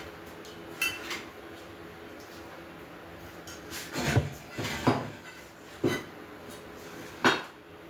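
Metal grill parts clanking and knocking together as a grill is assembled, with a few sharp knocks early on and louder clanks about once a second in the second half.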